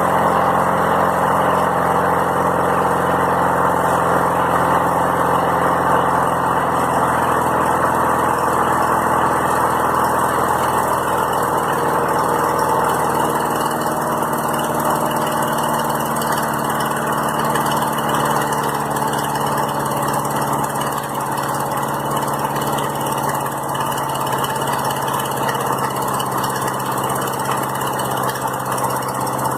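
Small lawnmower engine running steadily without stalling. Sea Foam has been added to its fuel, which the owner blames for the engine having trouble staying running.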